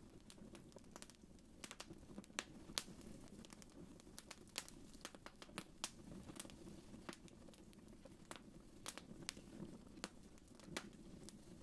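Wood fire crackling faintly: irregular sharp pops and snaps, a few each second, over a soft low rumble of the flames.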